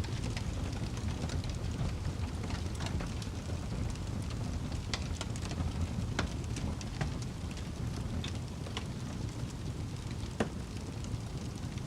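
Wood fire burning in a fireplace, with a steady low roar of the flames and scattered sharp crackles and pops; one louder pop comes near the end.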